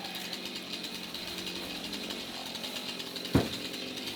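Husqvarna chainsaw running steadily, with a single short knock about three and a half seconds in.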